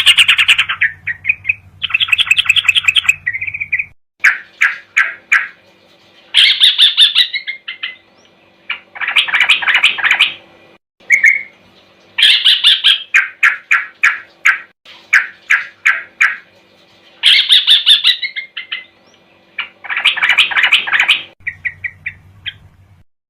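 Recorded trucukan (yellow-vented bulbul) song used as a bird-tutoring track: bursts of rapid, chattering chirps repeating every couple of seconds over a faint steady hum. The song stops shortly before the end.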